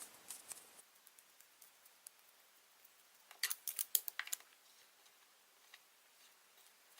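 Hands working Play-Doh with small plastic tools: faint handling ticks, and a quick run of sharp clicks about three to four seconds in.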